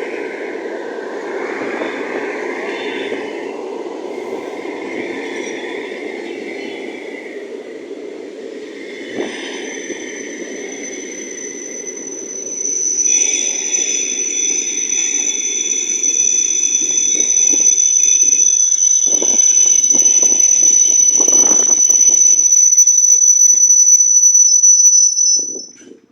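Train wheels running on rails with a rumbling noise, then about halfway through a steady high-pitched metal-on-metal squeal sets in, growing louder until it cuts off suddenly near the end.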